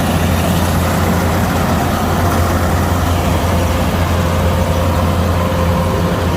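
Kubota DC-105X combine harvester's diesel engine running steadily, a constant heavy low hum with a faint steady whine above it.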